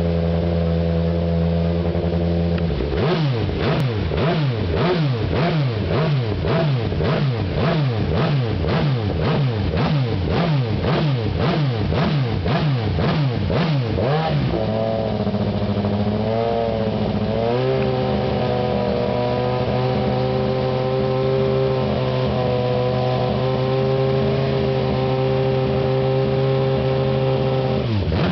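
Nissan Z GT racing car's engine idling, then blipped through quick repeated revs, about two a second for some ten seconds, before settling back to a steady, slightly raised idle.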